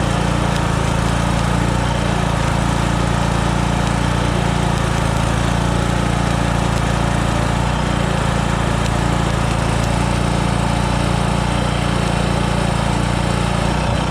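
Engine-driven welding generator, built from a WWII aircraft generator, running steadily at a constant speed.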